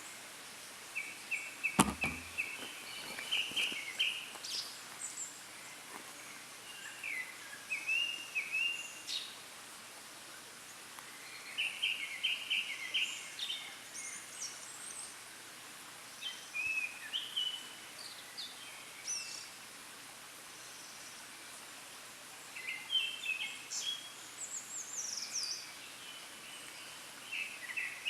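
Japanese thrush singing from a treetop: short phrases of varied fluty whistles, repeated every few seconds with pauses between. A single sharp knock about two seconds in.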